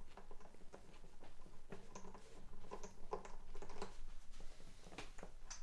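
A new string being wound onto the tuning post of a Seagull S12 Coastline 12-string acoustic guitar, making an irregular run of light clicks and rattles from the tuner and the winding.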